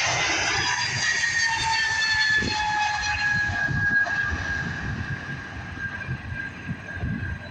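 Airbus A220-300 jet departing: its Pratt & Whitney PW1500G geared turbofans whine over a low rumble. The whine slowly falls in pitch and the sound gradually fades as the aircraft moves away.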